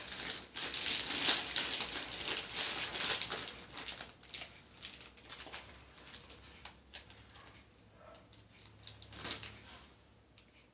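Popcorn being crunched: dense crackling for the first few seconds, then sparser single crunches.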